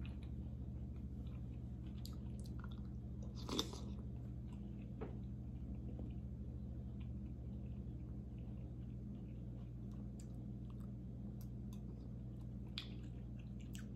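A person chewing and eating soft pasta shells in tomato broth from a spoon: faint mouth and chewing sounds over a steady low hum, with a brief louder sound about three and a half seconds in.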